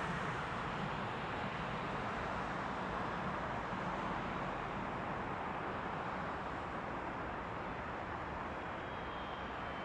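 Steady rushing noise of jet aircraft engines heard at a distance across an airfield, fading slightly.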